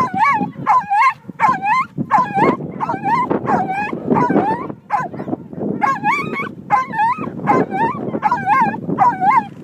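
A dog giving rapid, wavering yips and whines, about two a second, with a short pause about halfway through.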